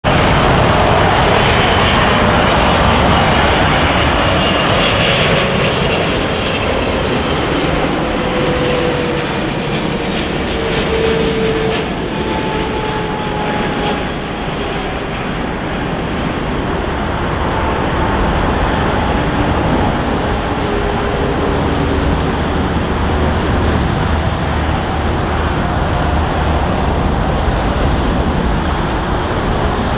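Jet engines of an Aeroflot Boeing 777-300 passing. The loud, steady roar carries faint tones that slide slowly downward.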